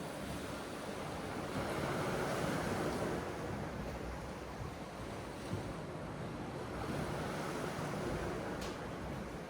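Sea surf washing in, a steady rush that swells louder twice, about two seconds in and again near the end.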